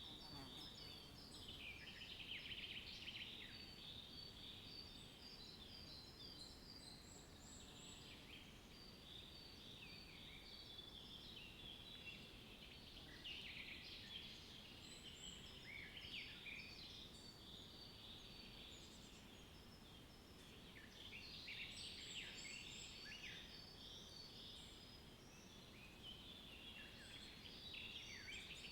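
Faint chorus of small songbirds chirping and trilling in overlapping bouts over a low background hiss.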